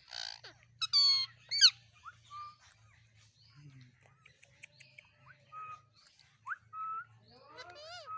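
Budgerigars chirping and warbling, with a few loud, sharp calls in the first two seconds. Softer scattered chirps follow, and a rising call comes near the end.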